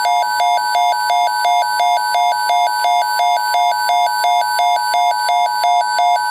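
Electronic emergency-alert attention tone for a tornado watch. A loud steady tone is held under a rapid pulsing beep, about three beeps a second.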